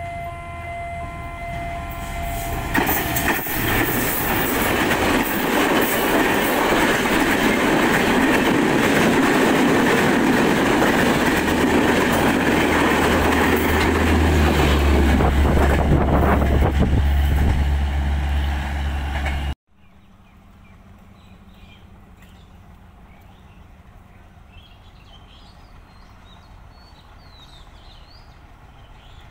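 A passenger train's horn sounds steadily at first. The train then passes close by: locomotive and coaches rushing over the rails for about seventeen seconds, with a deep rumble building near the end, until the sound cuts off suddenly. After the cut there is a much quieter low hum with faint chirps.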